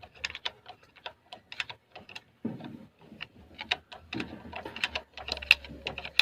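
Rapid, irregular metallic clicks and taps as the Cummins engine's flywheel is turned by hand to rotate the crankshaft, with a brief low rumble in the middle and again near the end.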